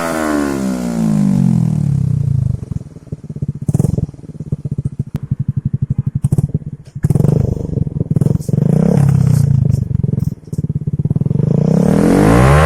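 Yamaha Jupiter Z1 single-cylinder four-stroke engine breathing through an aftermarket imitation Akrapovic exhaust. It revs down to an idle of distinct exhaust pulses, takes a few short throttle blips, then revs up again near the end.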